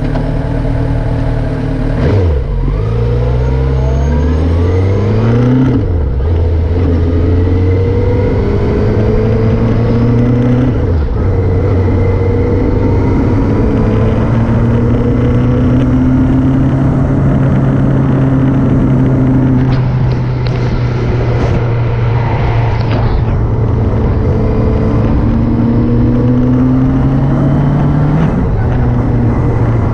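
Motorcycle engine under way. The engine note drops and then climbs again several times in the first ten seconds or so, as through gear changes. It then holds a fairly steady pitch, with a brief dip near the end.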